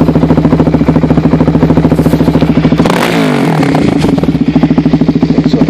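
Suzuki DR-Z400SM's single-cylinder four-stroke engine through an MRD Z-Pro exhaust, idling with a steady pulse. About three seconds in it is revved once, rising and dropping back to idle within about a second.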